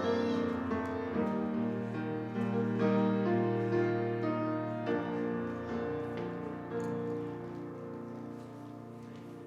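Piano prelude music, held chords that fade away near the end.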